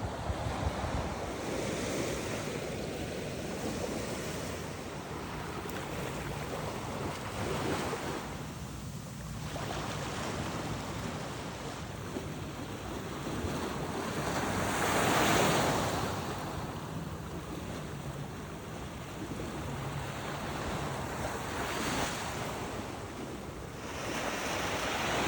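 Ocean surf washing onto a beach, the noise of the waves rising and falling with each set, loudest about fifteen seconds in, with wind buffeting the microphone.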